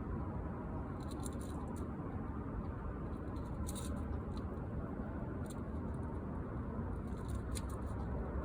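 Scattered light clicks and crinkles as window screen mesh is handled and stretched into its frame, over a steady low hum.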